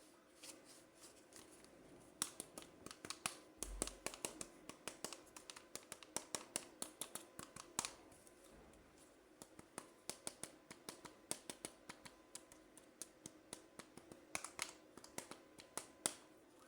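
Close-up handling of toy unboxing materials: a rapid run of small, sharp clicks and crackles. They come thick for several seconds, pause briefly about halfway, then return more spaced out.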